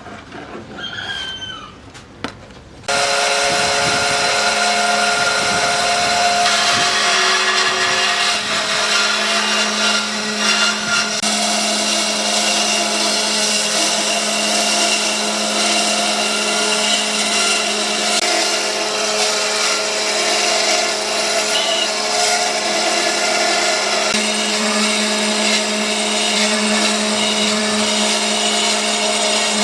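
An electric power tool working wood switches on abruptly about three seconds in and runs steadily at an even pitch. Before it starts there are a few faint clicks.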